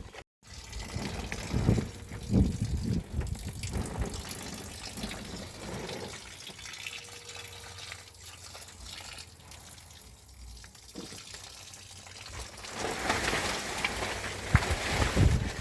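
Running water with a noisy, rushing sound, with a few low thumps in the first seconds and a louder rush about thirteen seconds in.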